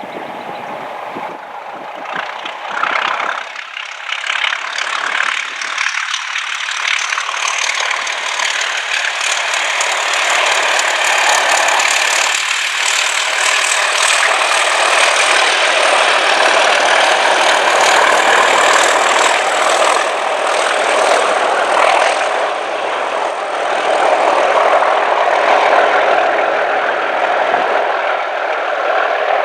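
Class 37 diesel locomotives, with English Electric V12 engines, passing at speed on a test train. The engine noise builds to loud and stays loud, with a high whistle rising in pitch over it.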